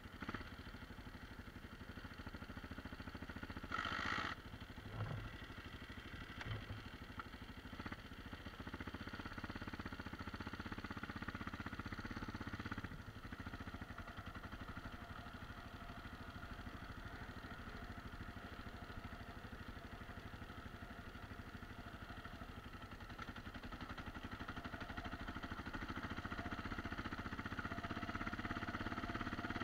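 Dirt bike engine running while riding over rough ground, growing louder over the last several seconds. A short hiss comes about four seconds in, followed by a couple of dull thumps.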